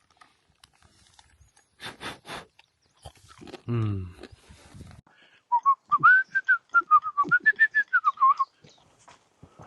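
A person whistling a short wavering tune for about three seconds, with a run of sharp clicks and knocks under it. Earlier come three quick scrapes and a brief low vocal sound.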